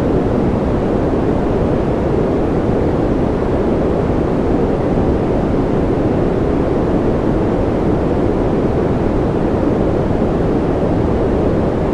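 Continuous white noise for baby sleep: a steady, unbroken hiss with a deep, low-weighted sound. It has no rhythm, pitch or changes.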